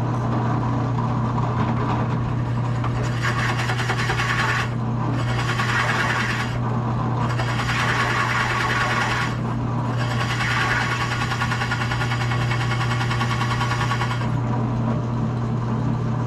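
Drill press running steadily with the bit boring into a wooden guitar body to a set depth. The cutting noise comes in four stretches, between about 3 and 14 seconds in, as the bit is fed down into the wood.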